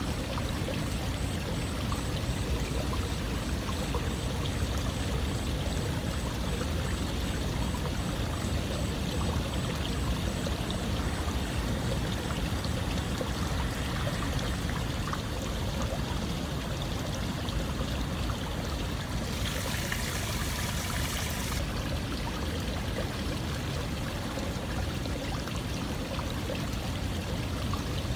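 Continuous flowing water, a steady rush of running or pouring water used as white noise. A brighter hiss rises for about two seconds two-thirds of the way through.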